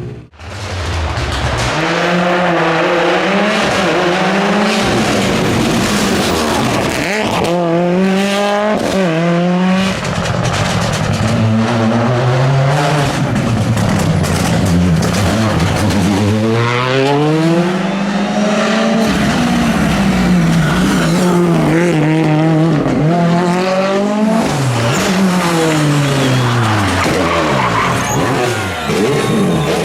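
Rally car engine driven hard, revving up and dropping back again and again through gear changes and braking, with tyres squealing at times.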